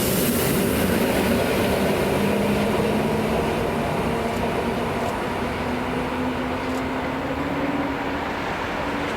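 A train running, with continuous rail noise and a low hum that slowly rises in pitch over several seconds.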